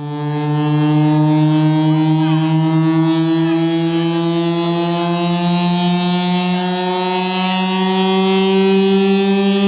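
A large sound system blasting a sustained, buzzy horn-like tone that starts abruptly and holds steady, stepping up a little in pitch about six seconds in.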